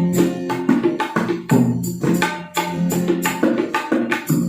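Instrumental passage of street-busker music between sung lines: kendang hand-drum strokes in a quick, steady rhythm with tambourine jingles over a pitched melody and bass.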